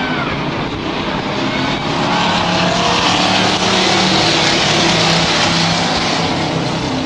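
Stock race trucks' engines running hard on a dirt oval, the sound swelling to its loudest around the middle as the pack passes, then easing.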